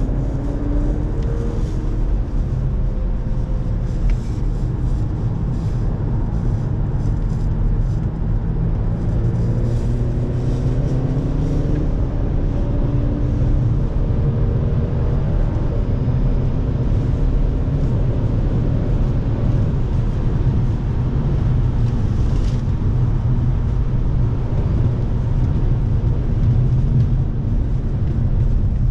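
An Audi's engine and road noise heard from inside the cabin while it is driven hard on a race track. A steady low rumble runs throughout, and the engine note climbs in pitch several times as the car accelerates through the gears.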